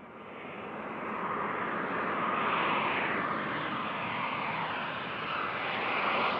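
Airplane engines passing close by, a steady rushing noise that swells over the first couple of seconds and then holds loud, with a slowly shifting tone.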